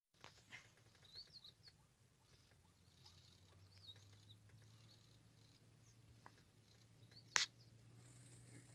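Faint bird chirps over a low steady hum, with one sharp click about seven and a half seconds in.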